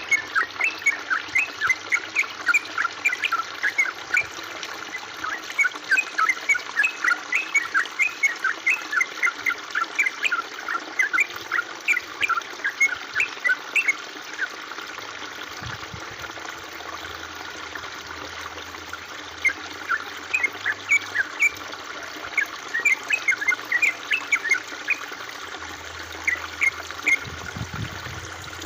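Water trickling steadily, with quick runs of short, high, bubbling plinks. The plinks stop for about five seconds midway, then return.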